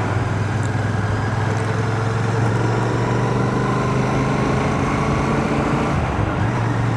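Royal Enfield Shotgun 650's parallel-twin engine running at a steady road speed, with wind and road noise, picked up by a microphone inside a full-face helmet. The engine note drops briefly about six seconds in, then picks up again.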